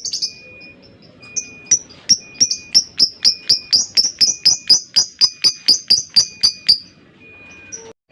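Lovebird ngekek: a long run of sharp, high chirps, about five a second, that begins about two seconds in after a few scattered calls and stops shortly before the end.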